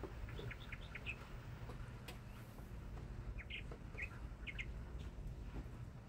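Songbird chirping: a quick run of short, high chirps near the start, and another about three and a half seconds in, over a steady low background rumble.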